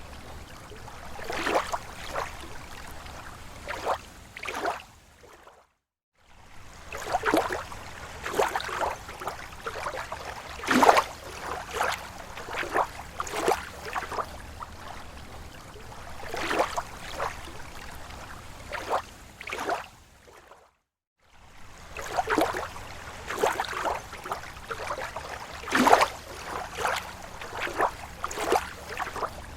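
Small waves lapping and splashing irregularly against a lake shore. The sound cuts out briefly to silence twice, about six seconds in and again about twenty-one seconds in.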